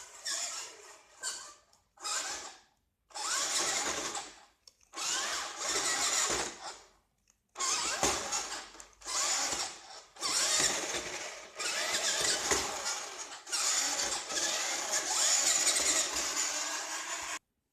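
Small electric motor and gearbox of a vintage Tandy Radio Shack Wild Ranger RC monster truck whirring under throttle. It comes in repeated bursts of one to a few seconds with short pauses, and the last long burst cuts off suddenly near the end.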